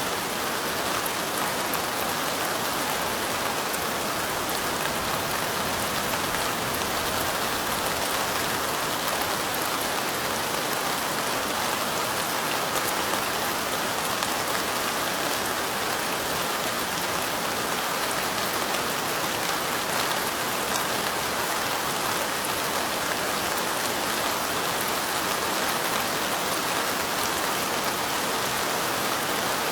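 Steady light rain falling on window glass: an even hiss with faint scattered drop ticks, unchanging throughout.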